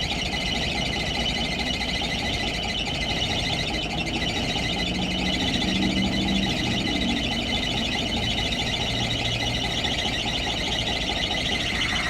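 Cummins Big Cam inline-six diesel idling rough just after a cold start, with the drive belts squealing in a steady high-pitched whine over the low engine rumble.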